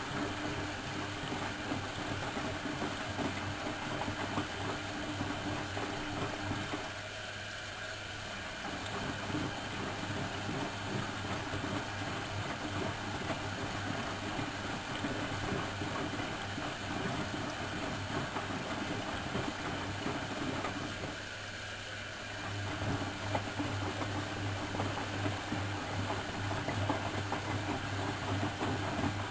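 Miele Professional WS 5105-C washing machine running a wash cycle: steady drum-motor noise with a low hum, dropping briefly twice as the drum pauses.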